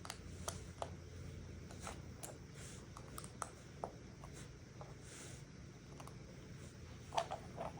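Small plastic Lego pieces being handled: faint, irregular clicks and taps with soft rustling, and a quick cluster of louder clicks near the end.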